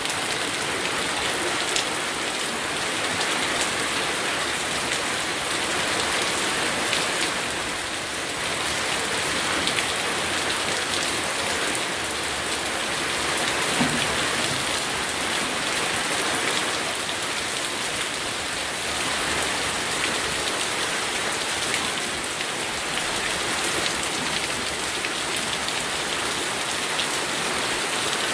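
Steady heavy rain falling on a surface, a dense even hiss with many fine drop ticks.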